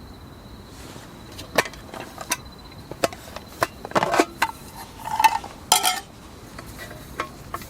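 Cookware and utensils being handled: a string of irregular sharp clinks and knocks, with a brief metallic ring about five seconds in.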